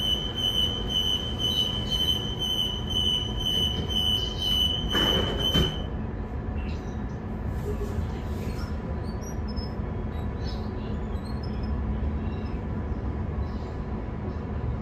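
Inside an electric suburban train pulling away on the Joondalup line. A steady high-pitched tone cuts off about six seconds in, around a short burst of noise, while the low rumble of the train running on the rails carries on.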